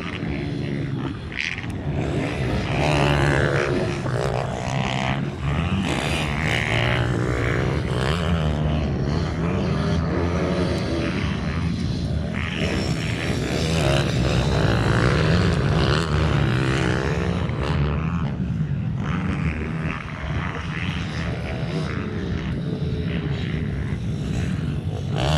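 Several small minibike engines racing, their pitch rising and falling as the riders rev up and back off.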